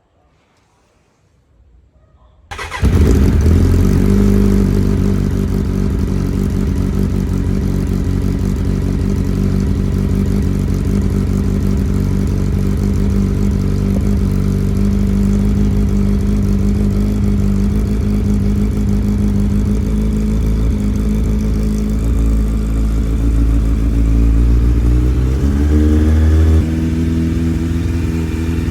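Carbureted Suzuki GSX750F inline-four motorcycle engine on a cold start: it catches about three seconds in and settles into a steady idle. Near the end the revs rise briefly, then drop back.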